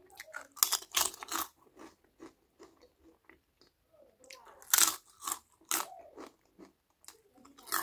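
Close-up crunching as a person bites into and chews crisp food, in two loud clusters, about half a second in and again near five seconds in, with quieter chewing clicks between.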